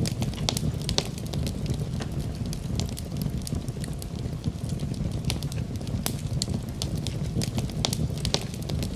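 Wood fire burning in a fireplace: a steady low rumble of flames with many sharp, irregular crackles and pops from the burning wood.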